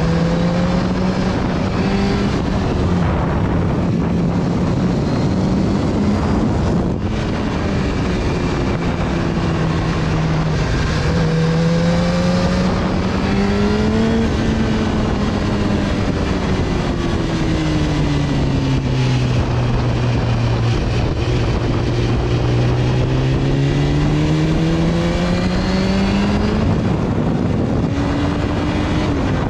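BMW S1000RR's inline-four engine heard on board while riding, its note rising and falling with the throttle through the bends, sinking lowest about two-thirds of the way through and climbing again near the end, over a steady rush of wind and road noise.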